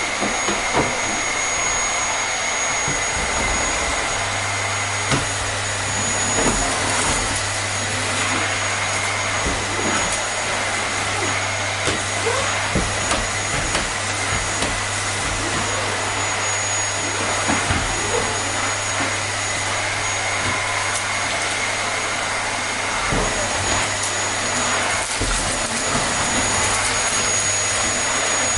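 Vacuum cleaner motor running steadily: a constant rush of air with a thin, steady whine on top and small crackles scattered through. A low hum joins about four seconds in and drops away near the end.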